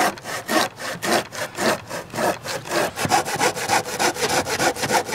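Hand saw cutting through wood in steady back-and-forth strokes. The strokes run about three a second and quicken after about three seconds.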